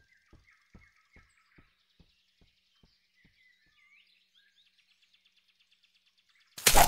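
Cartoon forest ambience: faint bird chirps over a faint, regular tick about two and a half times a second that fades out about three seconds in. Just before the end comes a sudden loud burst of noise lasting about half a second.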